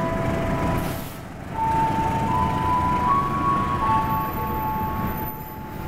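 Passenger train coaches rolling slowly past with brakes applied in a brake test. The wheels rumble steadily on the rails, dipping briefly twice as the gaps between coaches go by. Over this is a high brake squeal at several steady pitches that change from one coach to the next.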